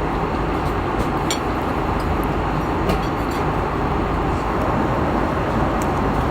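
Steady airliner cabin noise in flight: the constant rush of jet engines and airflow, with a few faint clicks over it.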